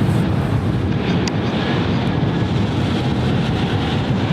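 Wind buffeting the microphone: a steady, gusty low rumble with a hiss above it.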